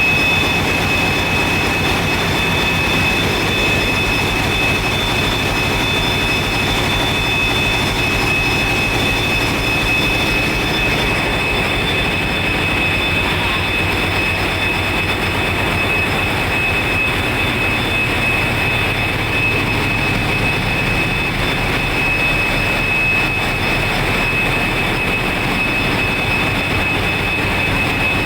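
Wärtsilä 18V46 medium-speed diesel generator engines running steadily in the power plant's engine hall: a loud, constant deep rumble with a steady high whine over it.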